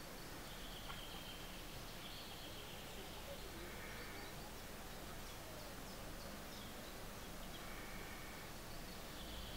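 Faint short bird calls, about five of them, each under a second, at two alternating pitches, over a steady outdoor background hiss.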